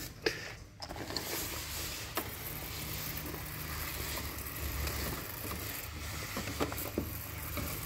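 Chemical cleaner sprayed in a steady hiss onto an air conditioner's indoor fan motor bearings, starting about a second in after a few clicks of handling. The spray is meant to flush out the dirt clogging the bearings, which makes the fan run unbalanced, vibrate and get noisy.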